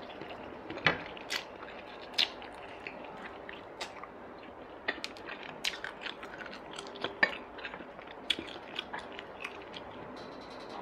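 A person chewing braised fish and rice close to the microphone: irregular wet smacking and clicking mouth sounds, a few louder than the rest.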